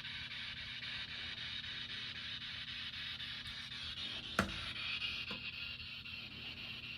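Steady low hum and hiss of room noise, with a sharp click about four and a half seconds in and a fainter click about a second later.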